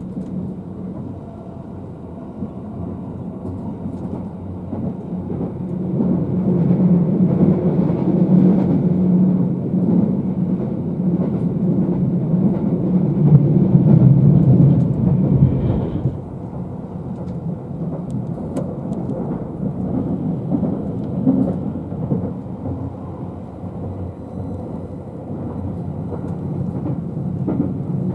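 Interior running noise of a JR West 271-series Haruka limited-express electric train: a steady low rumble of wheels on rail and motors. It grows louder from about six seconds in and drops back suddenly around sixteen seconds.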